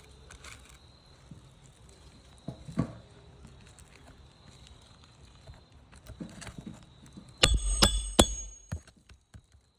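Knocks on a shingle roof, then, about seven and a half seconds in, a quick run of three or four sharp metallic strikes that ring, the loudest sounds here, over a dull low thud.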